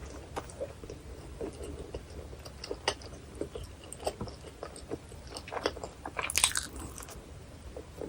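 Close-miked eating of a hot dog topped with chili, cheese sauce and onion: steady chewing with small wet clicks, and a louder crunching bite about six seconds in.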